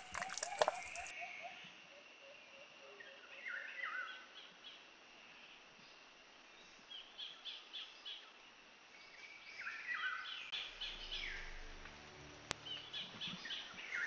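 Wild birds chirping in the mangrove scrub: several short bursts of quick, sweeping chirps, a few seconds apart. A faint low hum comes in during the last few seconds.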